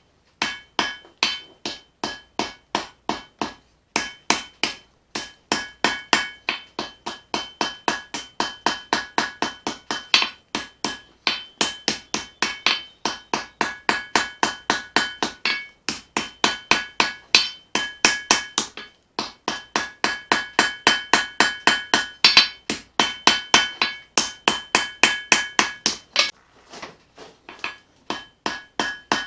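Hand hammer forging steel on an anvil: about three blows a second in runs with brief pauses, each blow ringing with a clear metallic tone.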